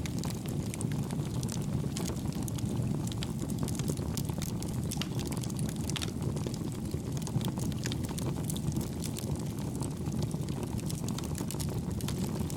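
Campfire burning: a steady low rumble of flames with frequent small, soft crackles.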